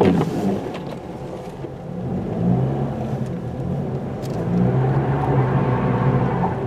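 Car engine running under throttle while its tires spin on ice, trying to climb a hill; a steady engine hum under a swelling hiss of tire spin.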